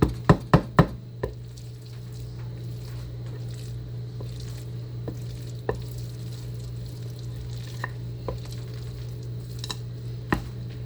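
A mixing spoon knocks against the bowl five times in quick succession, then a few light scattered clicks follow as the chicken salad is handled. A steady low hum runs underneath.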